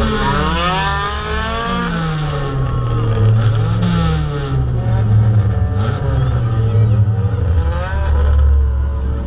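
Derby car's engine revving up and down again and again, heard from inside the car, with other cars' engines rising and falling around it.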